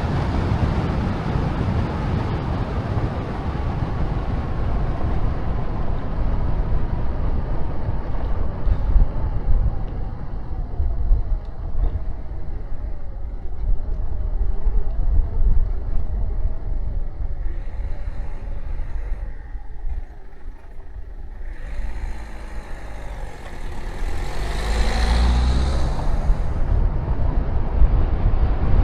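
Wind rushing over the microphone of a moving bicycle, a steady low rumble. A motor vehicle passes about 24 seconds in, its engine note rising and then falling away.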